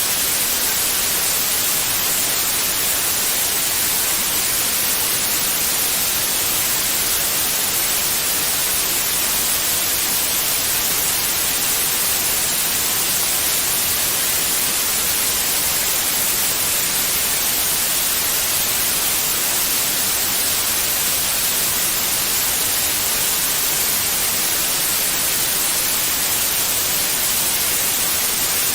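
Steady, unbroken white noise: an even hiss with no changes, strongest in the treble.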